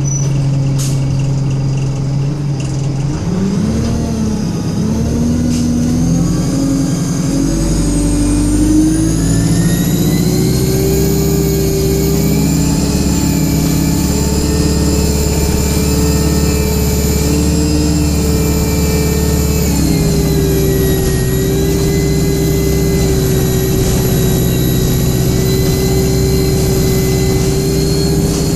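Alexander Dennis Enviro200 single-deck bus idling, then pulling away about three seconds in with its engine revving up through several rising glides. It settles into a steady high-revving run with a screaming high-pitched whine, easing briefly about two-thirds of the way through.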